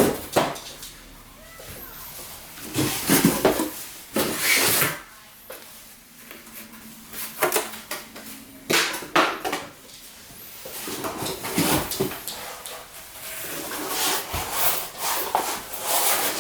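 Cardboard and plastic packaging being handled: irregular rustling and scraping, with scattered knocks and clicks of plastic parts.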